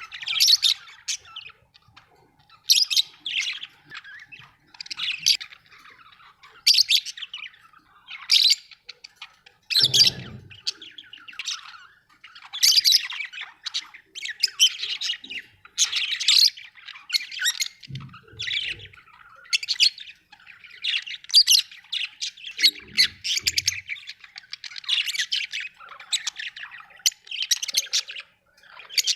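Budgerigars chirping and squawking in short, repeated bursts of chatter, a call every second or two. A few soft, low thumps come in between the calls.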